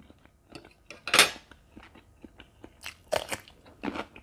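Person chewing springy tendon meatballs: irregular wet mouth clicks, with a few louder bites about a second in and again around three and four seconds.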